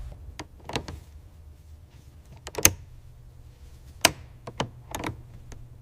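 A scattered series of sharp clicks and knocks, with quiet between them; the loudest come nearly three seconds in and about four seconds in.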